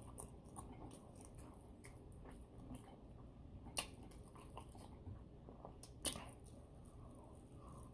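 Faint chewing of fried chicken, with small wet mouth clicks and crunches. Two sharper clicks stand out, about four and six seconds in.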